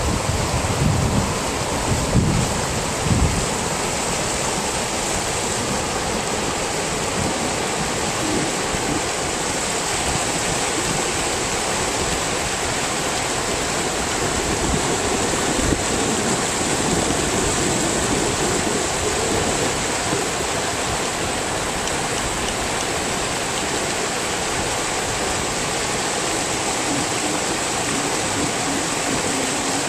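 Overland floodwater rushing steadily across a road. Wind buffets the microphone for the first few seconds.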